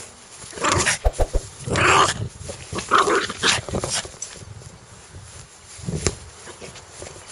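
A dog growling in several short bursts during the first four seconds, then a brief one about six seconds in.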